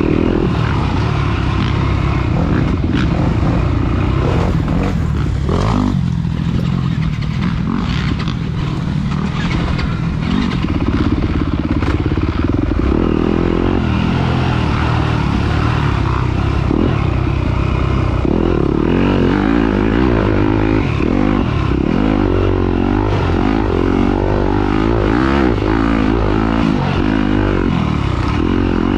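Off-road dirt bike engine running hard under load, its revs rising and falling over and over as the bike is ridden.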